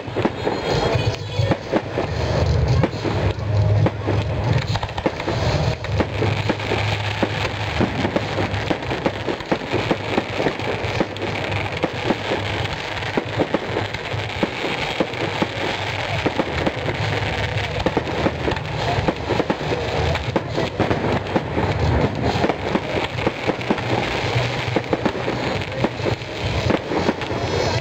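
Fireworks display in full barrage: a continuous rapid volley of cracks and bangs, many reports a second, with no break.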